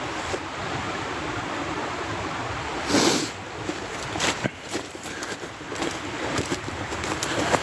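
Steady rushing of floodwater and wind, with a loud rustle about three seconds in, followed by irregular scuffs and knocks of someone walking through wet ground.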